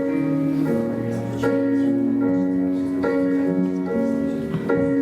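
Instrumental music: slow piano chords with sustained tones, changing about once a second, with no singing yet.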